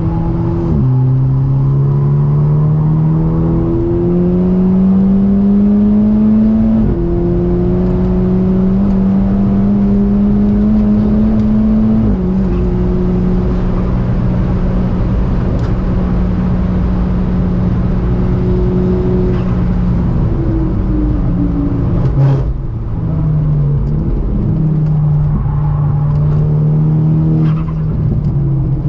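Volkswagen Golf 6R's turbocharged 2.0-litre four-cylinder running hard on track. The revs climb slowly within each gear and drop at each gear change. Later the revs fall off in steps, with a sharp crack about two thirds of the way in, then build again.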